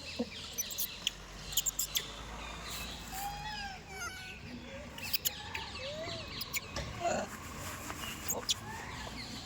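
A monkey calling: short arched coos and quick high chirps, repeated throughout, with scattered sharp clicks and knocks.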